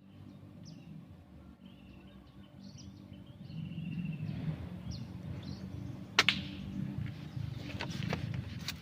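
Sparrows chirping in short high calls, then a single sharp air-rifle shot about six seconds in, followed by a few fainter clicks. A low rumble runs underneath.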